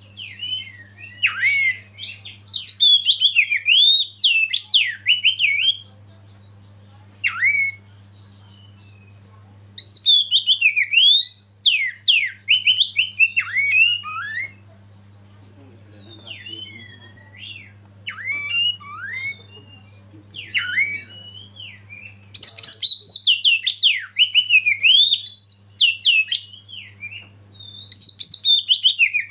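Oriental magpie-robin singing: bursts of rapid, sweeping whistled notes broken by short pauses, over a steady low hum.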